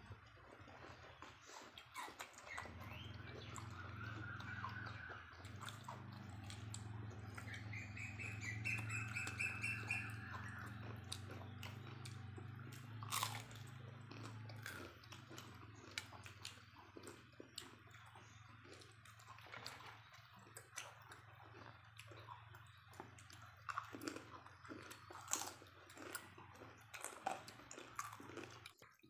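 Close-up chewing, slurping and wet mouth clicks of several people eating by hand from a tray of curry with corn cobs and snails. A bird twitters in short trills twice a few seconds in, over a steady low hum that fades about halfway.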